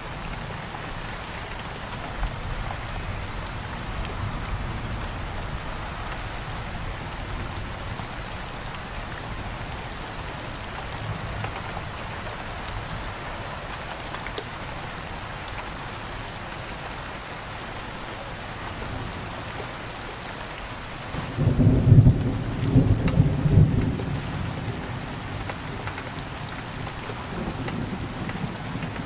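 Heavy rain falling steadily on a window pane. About two-thirds of the way in, a rumble of thunder rises suddenly and rolls for about three seconds, the loudest sound here, then fades back under the rain.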